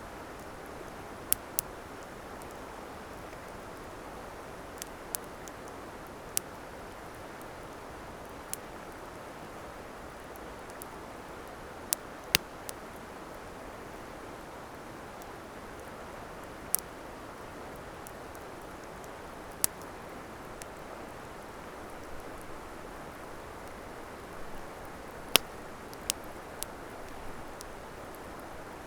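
Wood campfire crackling, with sharp pops at irregular intervals, a dozen or so over the span, over a steady rushing hiss.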